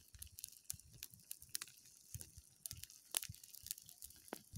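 Small fire of dry grass burning, with faint, irregular crackles and snaps.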